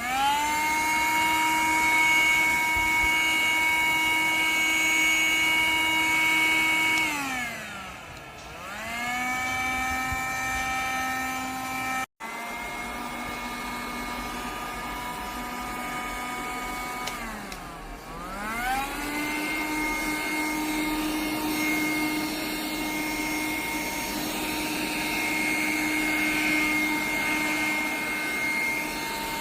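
Motor of the ELUXGO EC19B cordless bed vacuum cleaner running with a steady whine. It winds down and spins back up twice, running lower in pitch after the first restart and back at the higher pitch after the second.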